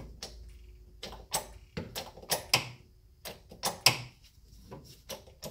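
Aldan coilover clicking over and over in a quick, irregular series of sharp clicks as the suspension extends and compresses. The owner takes it for the spring making noise as it expands or collapses; it is a click that was not there before the coilovers went in.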